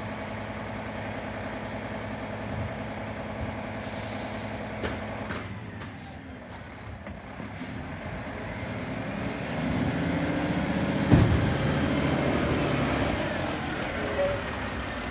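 Garbage truck engine idling steadily, then revving up again, with one sharp metallic bang about eleven seconds in and a faint high whine sliding down near the end.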